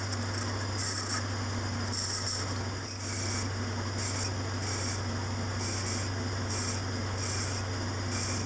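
Small metalworking machine tool running with a steady low hum, with irregular short bursts of high-pitched scraping from the cut about once or twice a second.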